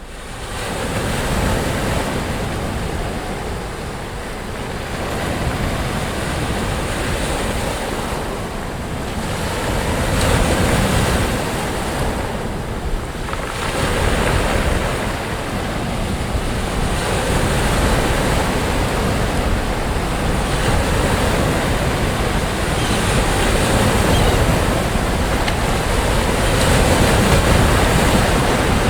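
Sea waves breaking on a beach: a continuous surf wash that swells and eases every few seconds, with some wind on the microphone.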